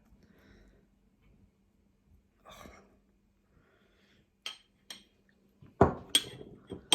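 Mostly quiet with a breath about two and a half seconds in, then a few light clicks and two sharper knocks near the end, as of a plate and cutlery being handled at the table.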